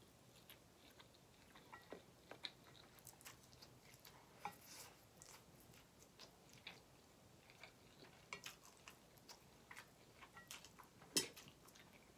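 Faint wet clicks and smacks of a mouth chewing a big bite of ramen noodles, close to the microphone, with a sharper click about eleven seconds in.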